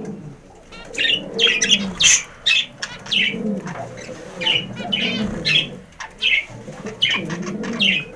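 Budgerigars chirping and chattering in quick, repeated bursts over a lower warbling sound. The chatter comes from a male in breeding condition reacting to a female just put into his cage.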